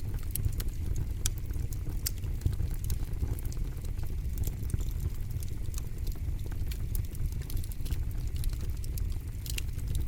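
Campfire burning, with a steady low rumble of the flames and sharp, irregular crackles and pops of burning wood.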